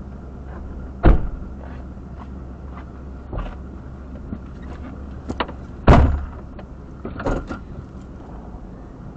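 Steady low rumble of a car idling, heard from inside the cabin, with a few sharp knocks and clunks, the loudest about six seconds in.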